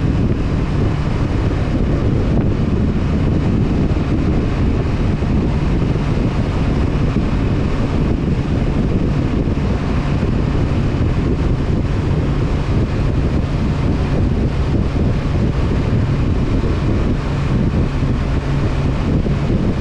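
Honda CB500F parallel-twin engine running at a steady cruise, mostly buried under heavy wind rushing over the microphone.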